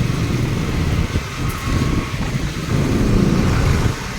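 Engine of a small motor vehicle running as it rides along a road, a steady low rumble with road and wind noise that swells briefly near the end.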